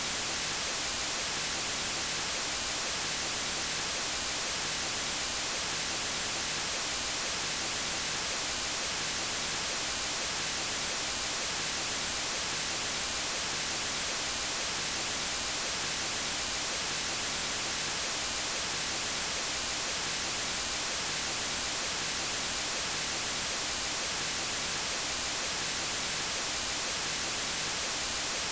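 Steady white noise: an even hiss, brightest in the highs, with no change.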